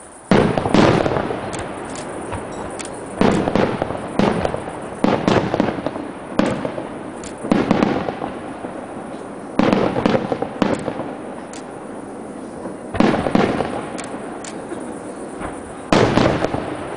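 Aerial firework shells bursting one after another, about eight sharp bangs spread unevenly through the span, each trailing off before the next.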